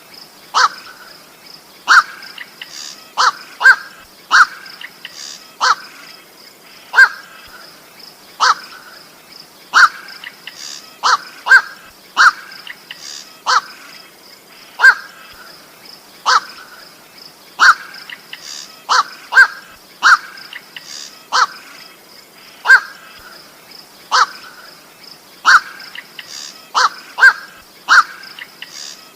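Black-crowned night heron (koak) calls: short, harsh single notes repeated about every second or so, some coming in quick pairs, over a faint steady high-pitched hum.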